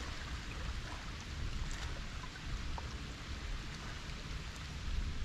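Light rain falling, a steady even hiss of drops, over a low rumble.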